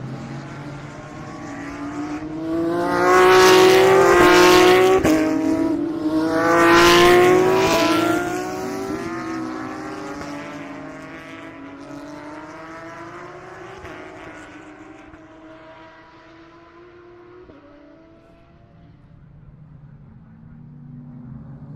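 GT3 race cars passing at speed on a road course. Two loud pass-bys about three and seven seconds in, with the engine pitch dropping as each goes by, then the cars fade into the distance while further engines run faintly. Another car approaches near the end.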